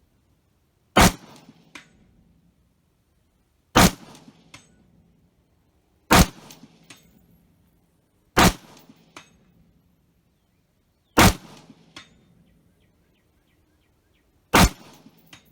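Six rifle shots from an 11.5-inch AR-15 pistol fitted with a Sons of Liberty Gun Works NOX compensator, fired two to three seconds apart. After each shot a faint clang of the hit on the 8-inch steel plate at 200 yards comes back a little under a second later.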